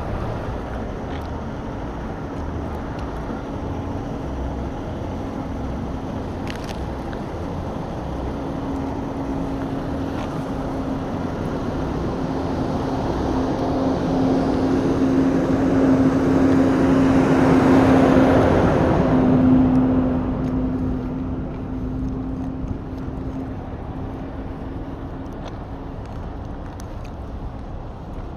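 Road vehicle engine and traffic noise at a truck stop. A vehicle grows steadily louder, passes closest about eighteen seconds in, drops slightly in pitch and fades away.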